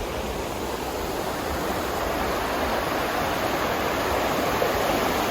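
River rapids rushing steadily over rocks, a continuous white-water roar that grows gradually louder.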